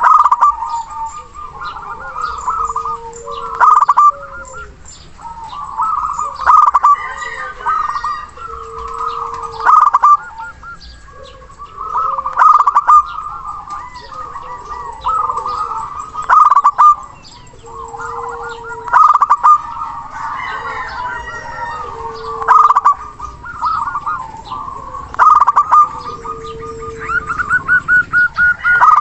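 Zebra doves (perkutut) cooing in repeated phrases every two to three seconds, some ending in a short steady low note, mixed with other birds' calls.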